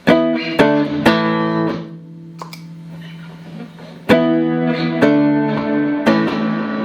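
Clean electric guitar through a Boss RV-6 reverb pedal into Roland JC-120 amps, strumming chords: three in quick succession, a quieter pause of about two seconds, then three more about a second apart, the last left ringing.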